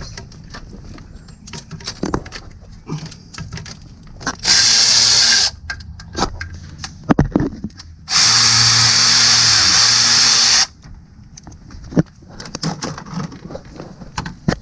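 Handheld power tool running in two bursts, about a second long and then about two and a half seconds, backing out 10 mm bolts from the engine's front cover. Small clicks and knocks of tool handling come between the bursts.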